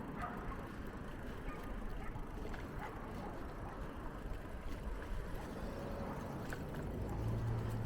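Bicycle ride: a steady low rumble of tyres and wind on the microphone, with faint small clicks and a low steady hum coming in near the end.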